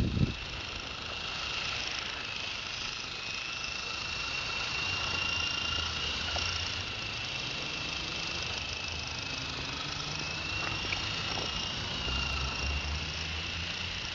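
Small electric RC helicopter (Shark S006) running steadily, its motor and rotors giving a constant high whine that wavers only slightly in pitch.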